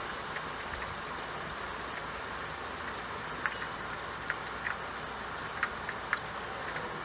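Steady rain hiss, with a few sharp taps of drops in the second half.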